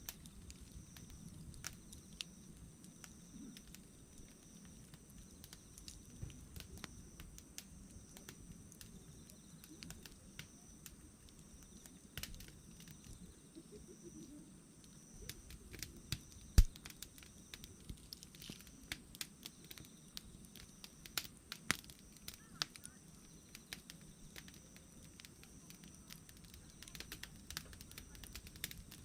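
Wood campfire burning, crackling with irregular small snaps over a soft low rush of flame, with one much louder pop a little past halfway.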